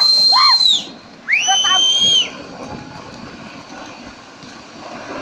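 Two long, high-pitched screams, the second about a second after the first, followed by a steady, quieter rushing rumble.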